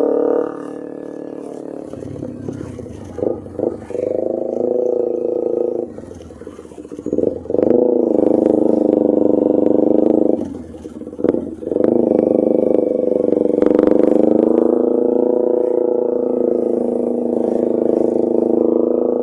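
Kawasaki Ninja 250R parallel-twin engine running through a loud Austin Racing aftermarket exhaust while riding. The engine note drops away and picks back up several times, with short throttle blips in between, then holds steady and loud.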